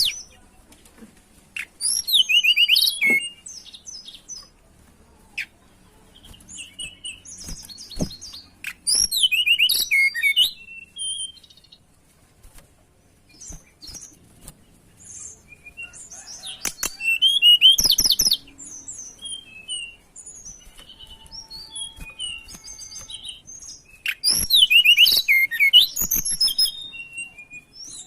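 A tledekan songbird singing in loud, fast, high-pitched trilled phrases about every seven to eight seconds, with softer chirps between them and a few sharp clicks. This is a lure song meant to provoke a rival male.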